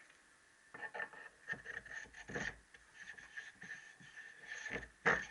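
Scattered light clicks and knocks of metal engine parts and tools being handled on a workbench, the loudest knocks about two and a half seconds in and just before the end.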